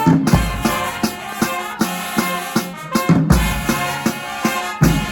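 A marching band playing a brass tune over its drumline, with sharp snare and bass-drum hits. Deep low-brass notes come in on the strong beats.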